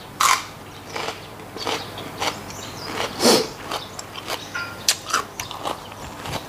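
Close-up crisp crunch of a bite into a raw green vegetable stick, followed by irregular chewing crunches and wet mouth sounds. The loudest crunch comes about three seconds in.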